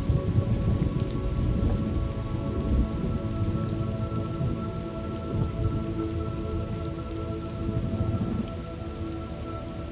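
Thunderstorm ambience: steady rain with a low rolling thunder rumble that eases off near the end, under a few soft held tones.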